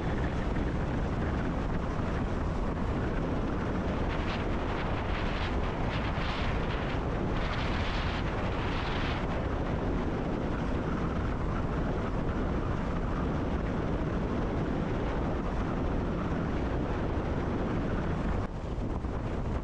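Steady low running noise of a passenger train heard from the driver's cab, with a few short hissing bursts about four to nine seconds in. The noise drops slightly near the end.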